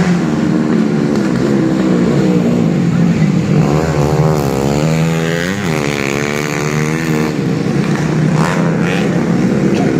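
Standard underbone motorcycle engines racing at high revs. Between about four and seven seconds in, one bike's engine note rises and then falls as it revs and passes close.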